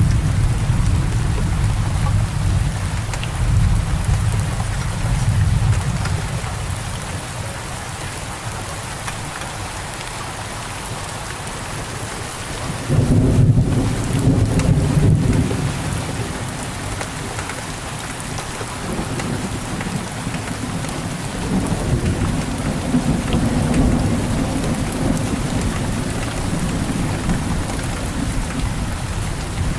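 Steady rain falling with rolling thunder. A low rumble dies away over the first several seconds, then a sudden louder crack of thunder comes about halfway through and rumbles on and off to the end.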